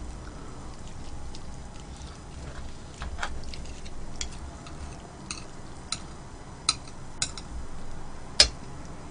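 Mukbang eating sounds: utensils click against a dish about seven times, spaced irregularly, with the loudest click near the end.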